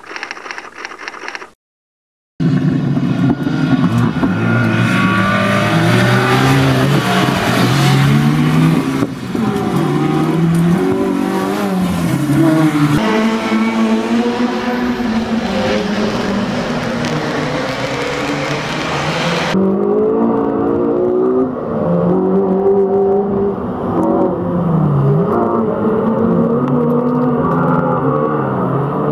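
Small hatchback rally car's engine revving up and down in pitch as it is driven hard through a tight tarmac test. The sound starts after a short silence near the beginning and turns duller about two-thirds of the way through.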